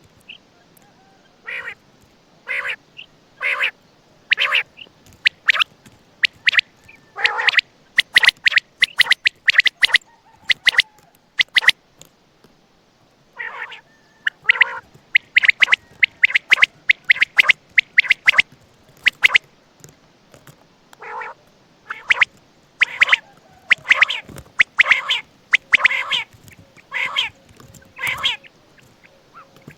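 Quail (batair, Coturnix) calling: runs of short, sharp notes in quick succession, with brief pauses between the runs.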